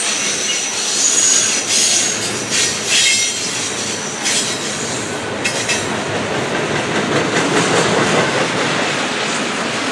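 Double-stack intermodal well cars rolling past: steel wheels on the rails give a steady rumble with repeated clacks. A high-pitched wheel squeal rings through the first few seconds, then fades into the rumble.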